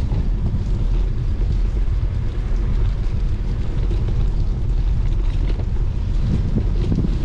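Steady low rumble of wind buffeting the microphone while a bicycle is ridden, with a faint hiss of riding noise underneath.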